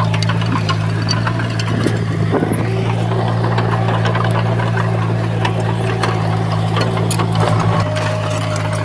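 Heavy diesel construction machinery running steadily, with scattered clicks and clanks.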